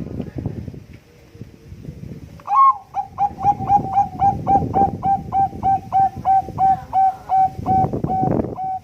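Zebra dove of the Bangkok perkutut strain singing: a fast run of about twenty short cooing notes at one steady pitch, about three a second, starting a couple of seconds in. Low rumbling noise lies underneath.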